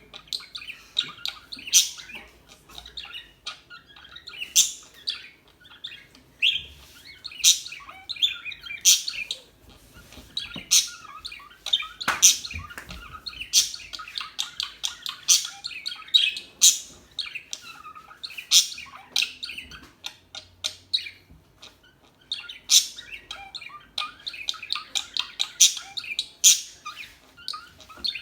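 Budgerigars chattering: a continuous warble of small chirps with sharp, loud calls every second or two.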